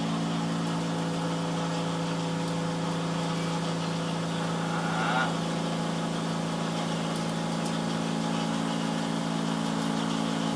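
Portable cotton candy machine running: its 12-volt DC motor spins the sugar head with a steady hum, with a brief slightly louder moment about five seconds in.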